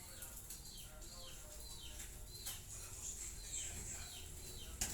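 A bird chirping over and over, short falling notes about two a second, over a faint steady hiss. A single sharp click comes near the end.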